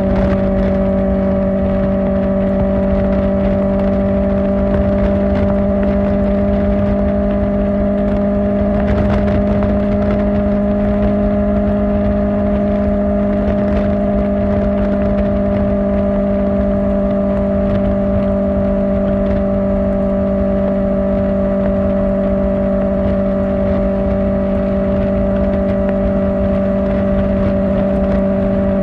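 Kawasaki Ninja ZX-4R's inline-four engine through an Akrapovic exhaust, running at a steady, constant engine speed while cruising, with wind rush underneath.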